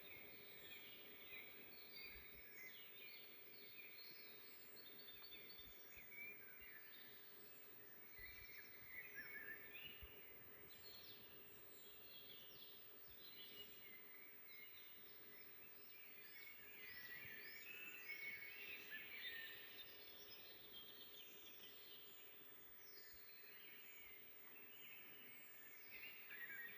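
Several small songbirds chirping and warbling, faint, with overlapping short phrases throughout.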